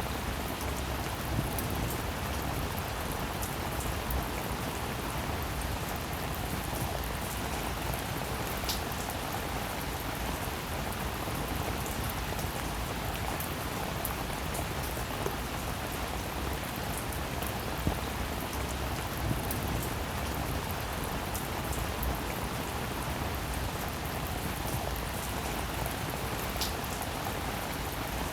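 Steady rain falling, a constant hiss with many small drop hits. Two brief high pings stand out, one about a third of the way in and one near the end.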